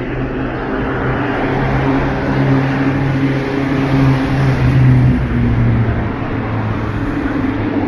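A motor vehicle's engine running with a steady low hum, growing louder to a peak about four to five seconds in, then easing off as it passes close by.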